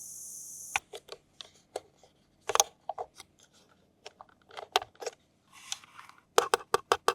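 Close-up handling of a toy and its plastic packaging: irregular sharp clicks and snips, with a brief rustle near six seconds. A steady high hiss cuts off under a second in.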